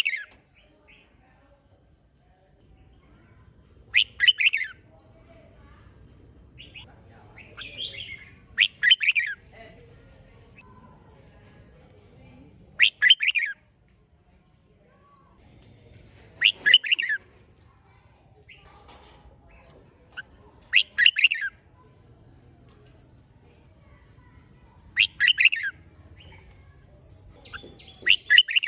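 Red-whiskered bulbul singing its competitive song in short, loud warbled phrases, one about every four seconds.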